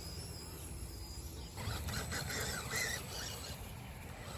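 Small 1/14-scale electric RC truck's brushless motor whining in short rising and falling bursts as the throttle is worked, starting about one and a half seconds in, over a steady low rumble.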